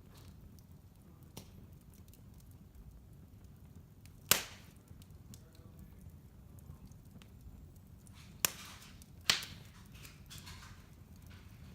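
Wood fire burning in a fireplace: a low steady rumble with small crackles, broken by three sharp pops, one about four seconds in and two less than a second apart near the end.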